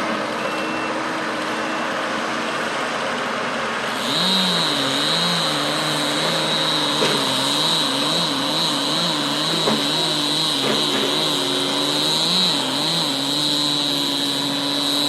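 Heavy machinery engine running steadily, then getting louder about four seconds in, its pitch dipping and rising again many times, with a steady high-pitched whine over it.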